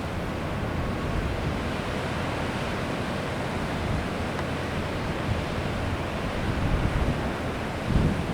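Heavy sea surf washing and breaking, with wind buffeting the microphone and a stronger gust near the end.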